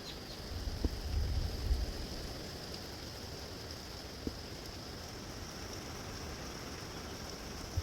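Gusty wind blowing in a steady rush, with a gust buffeting the microphone as a low rumble about a second in.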